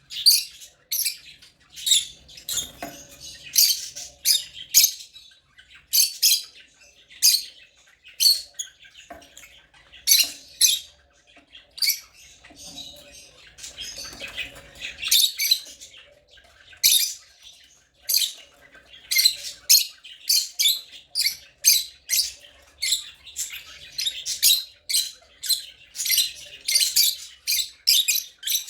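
African lovebirds chirping: a run of short, shrill calls, about one or two a second, with softer chattering between them.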